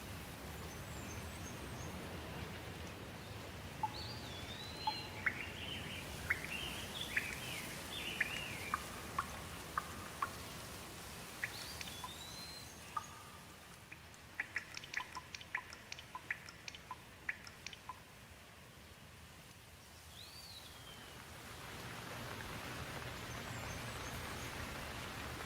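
Steady rain with small birds chirping over it: short whistled calls and sweeping chirps in the first half, then a quick run of sharp chirps in the middle while the rain thins. The rain swells again near the end.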